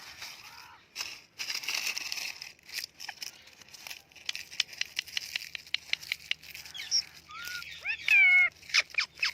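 Indian ringneck parrot vocalising: scratchy chattering, then a run of quick clicks, with a few short gliding whistle-like calls near the end, the loudest about eight seconds in.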